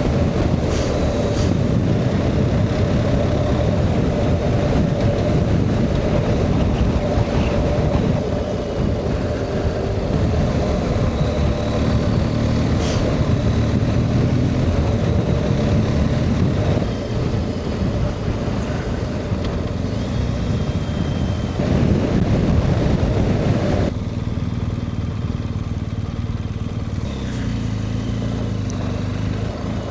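BMW R 1250 GS boxer-twin motorcycle engine running on the move, with wind rush over it. Near the end the wind rush drops away sharply, leaving the engine's steady low note.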